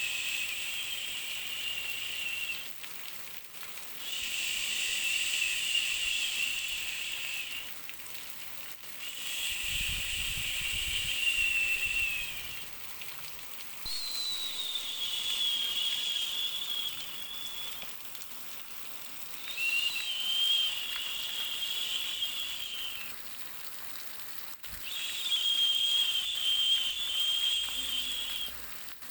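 A high, whistling hiss that comes in repeated spells of about three to four seconds with short pauses between, about six times, some spells sliding slightly down in pitch, over a faint steady hiss.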